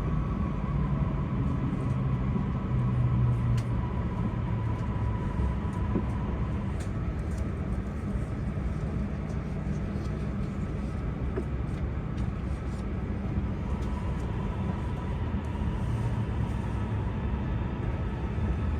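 Steady rumble of a Tohoku Shinkansen train running, heard inside the passenger cabin, with a faint steady hum.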